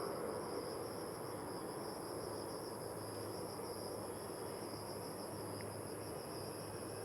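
Insects buzzing steadily at a constant high pitch, over a faint even rushing background and a low hum.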